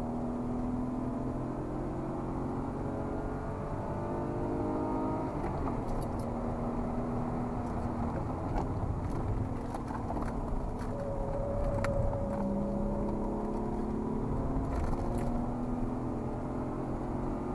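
BMW E36 320i's 2.0-litre straight-six heard from inside the cabin, pulling hard on track. The engine note climbs steadily, drops at a gear change about five seconds in and again about twelve seconds in, then rises again, with a few light clicks over it.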